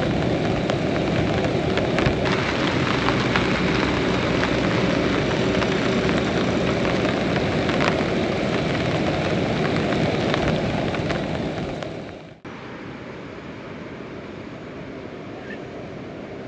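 Heavy rain falling steadily, with scattered close drops striking like clicks. About twelve seconds in it drops off sharply to a quieter, even hiss of rain.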